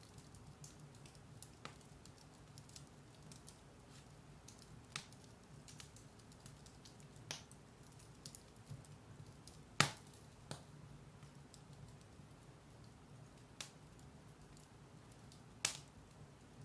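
Firewood burning in a fireplace: a low, steady fire sound with frequent small crackles and half a dozen sharper pops, the loudest about ten seconds in.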